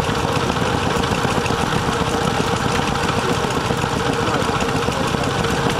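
An engine running at a steady idle, with a fast, even beat.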